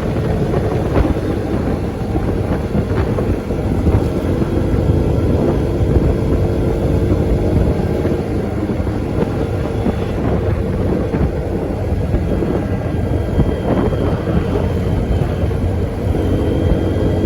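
Steady motor vehicle engine and road noise, a continuous low rumble with a drone, mixed with wind on the microphone.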